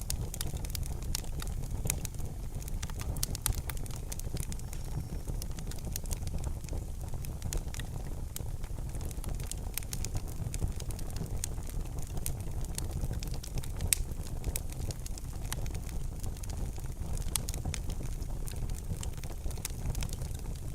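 Wood fire burning in a fireplace: a steady low rumble of flames with frequent sharp crackles and pops, one louder pop about fourteen seconds in.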